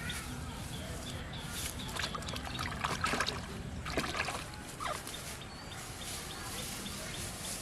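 Water splashing and sloshing in shallow water, with scattered clicks and knocks, loudest about three and four seconds in. A faint, regular high ticking runs through the second half.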